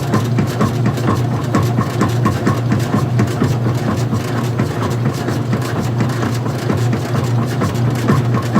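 Old-style front-loading washing machine running with its cover off: a steady low motor hum with a rapid, regular ticking of about three or four beats a second.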